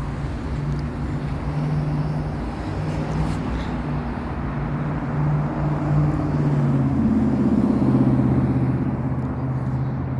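Steady low engine drone that swells somewhat about six to eight seconds in.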